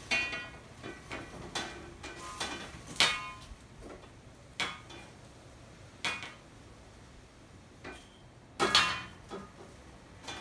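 Window blind slats clacking and rattling irregularly as gusts of wind blow them about, each clack ringing briefly. The loudest clacks come about 3 seconds in and again near 9 seconds, the later one a quick double.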